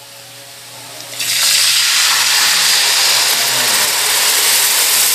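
Tuna going into a very hot frying pan of oil, butter, onion and garlic: a quieter sizzle for about a second, then a loud sizzle jumps up and stays steady.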